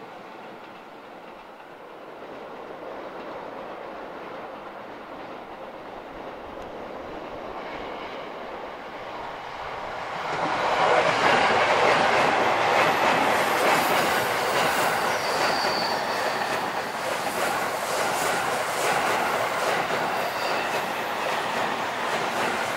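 An electric train approaches and passes close by on a tight curve, its wheels rumbling and clicking rhythmically over the rail joints, with brief high-pitched squeals from the wheels on the curve. It grows louder gradually, then jumps louder about ten seconds in and stays loud as the cars go by.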